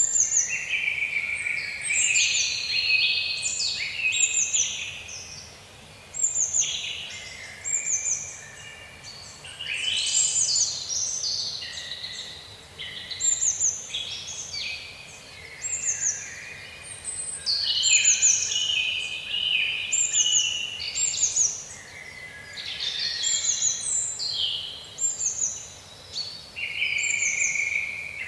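Several birds singing at once, overlapping calls and chirps, with short falling high whistles repeated over and over among busier, lower phrases. A faint, steady hiss lies underneath.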